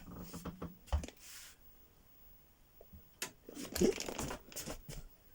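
A small cabinet door opening, with knocks, rattles and a short creak in two spells, one at the start and another about three seconds in.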